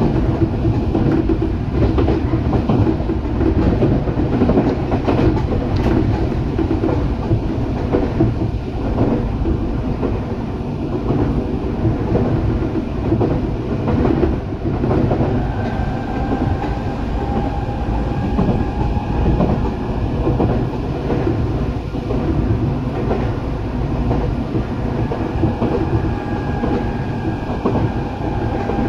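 Eidan (Tokyo Metro) 8000 series electric train running: a steady rumble of wheels on rail with irregular clicks over rail joints. A thin whine comes in about halfway through.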